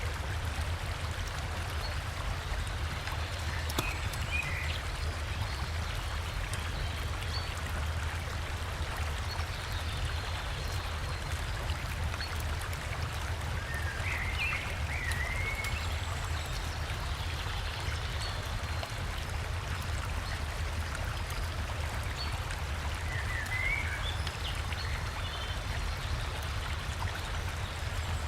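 River water running steadily over a small waterfall, an even rushing with a low rumble underneath. A bird gives a short chirping call three times: a few seconds in, about halfway, and near the end.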